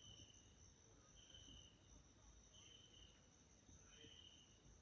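Near silence with faint insect calls: a short high trill repeating about every second and a half over a steady thin high whine.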